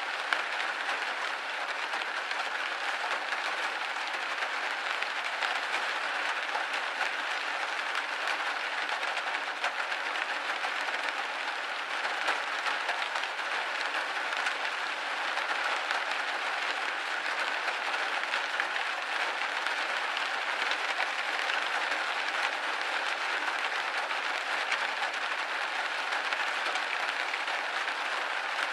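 Steady rain pattering on a window pane, a dense even patter of many small drops.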